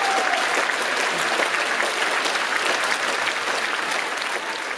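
Concert audience applauding, dense steady clapping that begins to fade near the end.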